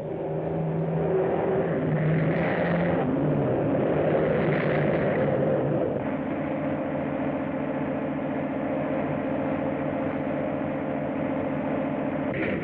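Engine running with a steady droning hum, louder and busier in the first half, then settling into an even drone.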